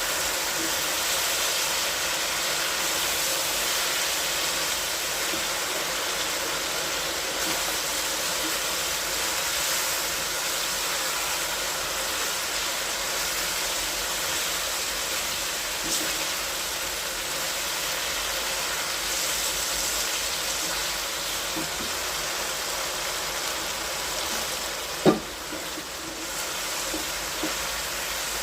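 Steady hissing noise, with one sharp knock near the end.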